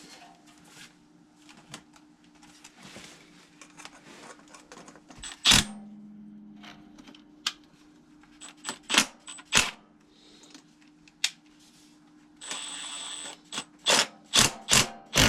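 Sharp metal clicks and clanks of hand tools and bolts while the fasteners on a furnace blower assembly are tightened, with a brief whir about two-thirds of the way through and a quick run of clanks near the end.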